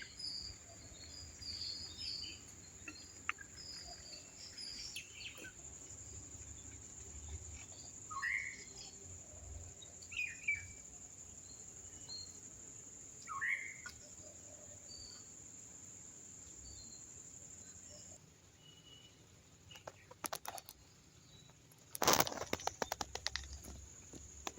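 Wild birds chirping and giving short, falling calls, over a steady high-pitched whine that stops about three-quarters of the way through. Near the end comes a burst of sharp clicks and crackles.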